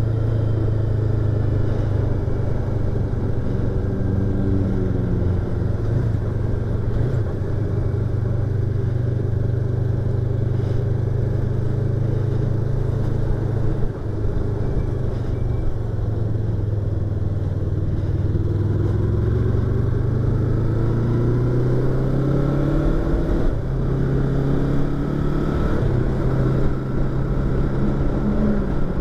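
Yamaha YZF-R25's 250 cc parallel-twin engine and exhaust while riding, heard from inside the rider's helmet. It holds a steady pitch, dips briefly about halfway through, then rises as the bike accelerates.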